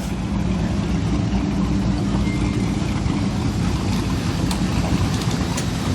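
An engine running steadily at low speed, a continuous low hum with a steady pitch.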